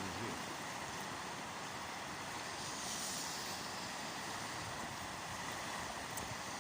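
River water flowing and rushing as a steady hiss, with no clear events.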